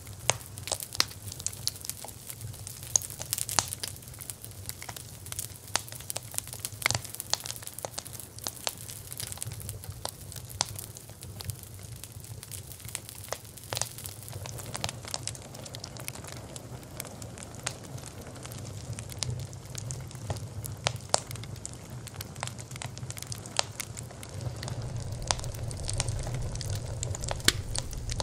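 Wood fire burning, crackling with irregular sharp pops and snaps over a low steady rumble that grows a little louder near the end.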